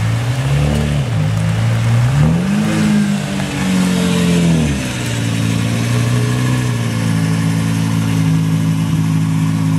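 Lamborghini Murcielago V12 engine blipped twice, a short rev about half a second in and a longer held rev from about two to five seconds, then settling back to a steady idle.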